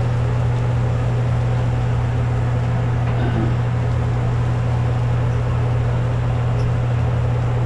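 Steady low hum over an even background noise, unchanging throughout, like a motor or fan running.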